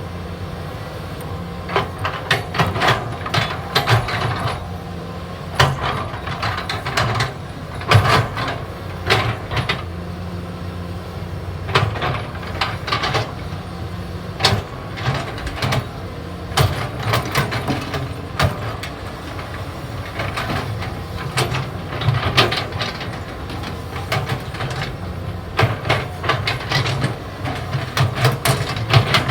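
CAT 320D hydraulic excavator working, its diesel engine running steadily, with frequent sharp clanks and knocks as it digs.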